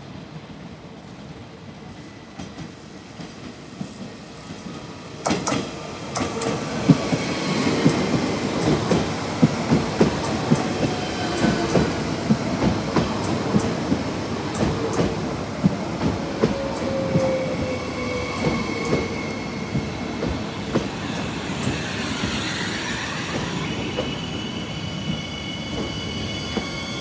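A train pulling in, growing louder about five seconds in, its wheels clicking over rail joints, with a slowly falling whine as it slows and high brake squeal near the end.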